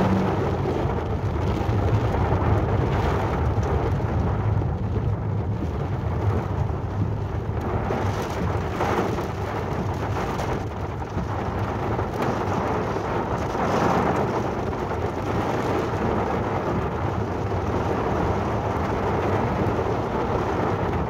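Heavy rain drumming on a car's roof and windshield, heard from inside the moving car over a steady low rumble. The rain noise swells briefly twice.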